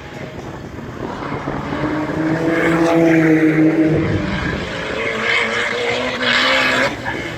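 Race car engines running hard on the track, swelling to a loud peak about three seconds in and again around six seconds.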